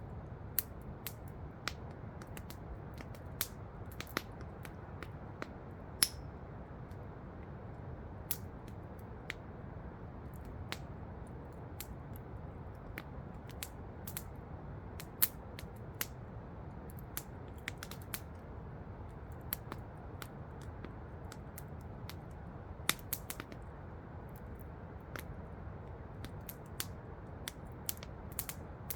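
Wood campfire crackling with irregular sharp pops, a louder pop about six seconds in, over the steady rush of a waterfall.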